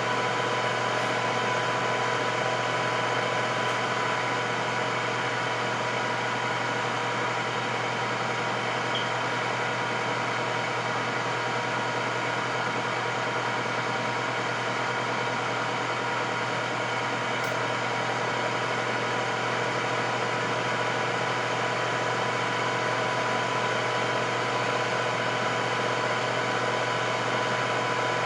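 Electric air fryer running: a steady whir with a faint constant whine.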